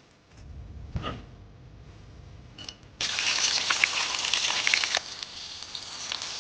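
Food frying in a hot pan: a steady sizzle full of small crackles and pops that starts suddenly about halfway through. Before it there is only a low rumble and a single knock.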